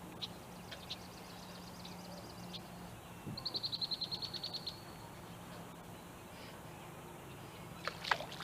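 A small songbird singing a fast trill of evenly repeated high notes, about ten a second, lasting about a second and a half, after a few scattered faint high chips. A short click comes near the end.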